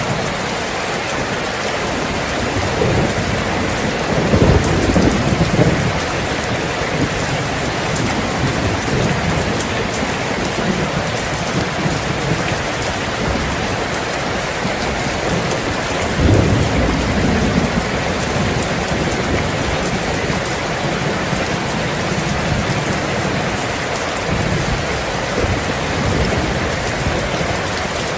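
Steady heavy rain falling, with thunder rumbling low twice.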